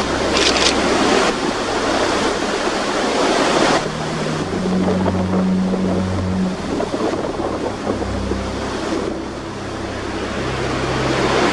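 Strong wind gusting and buffeting the microphone, a loud, rushing noise that eases a little around four seconds in and again around nine to ten seconds in, then builds again near the end.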